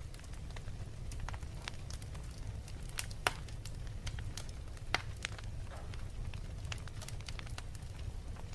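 Wood fire crackling in a fireplace: scattered sharp pops and snaps, two louder ones about three and five seconds in, over a steady low rumble of the flames.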